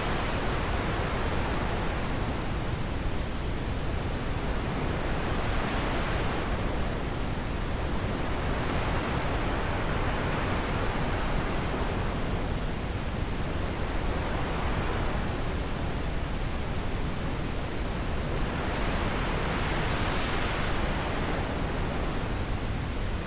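Steady wind noise with a deep rumble underneath, swelling and easing in slow gusts every few seconds.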